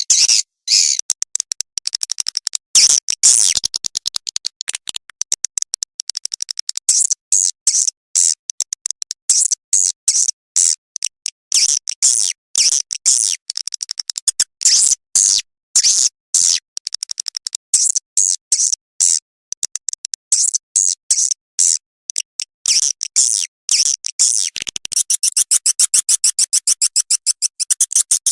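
Swiftlet lure sound played back: dense runs of rapid, high-pitched chattering chirps and clicks, looped with brief gaps. It is the kind of call played through speakers in swiftlet houses to draw in and settle nesting swiftlets.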